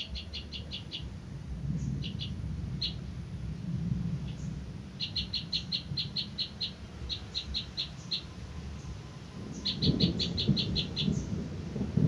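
A bird calling in quick runs of sharp, high chirps, about six notes a second, several runs with pauses between them. A low rumble comes in near the end.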